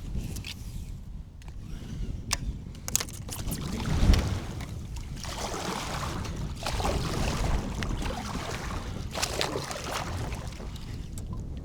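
Water lapping and splashing against a pedal-drive kayak's hull in heavy wind, with wind rumbling on the microphone. Scattered small ticks and knocks are heard, with one louder knock about four seconds in.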